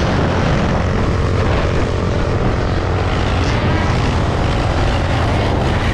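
Steady rush of wind and road noise on a GoPro microphone while riding a Sur-Ron electric dirt bike, strongest in the low rumble, with a faint steady whine in the first half.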